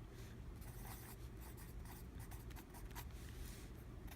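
Faint hand-writing sounds: a series of short scratchy strokes of a pen or pencil on a writing surface, over a low steady room hum.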